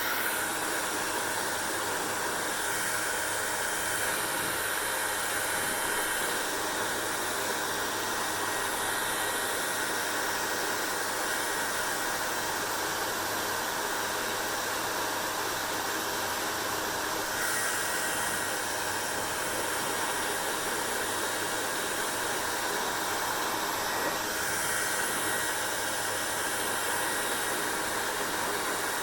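Hair dryer running steadily: a constant blowing hiss over a faint motor hum. Its tone brightens slightly a couple of times, about two-thirds of the way through and again near the end.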